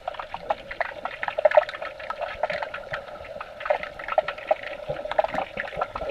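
Muffled water bubbling and gurgling heard from a camera held underwater: a dense, steady run of short bubbly pops and water noise.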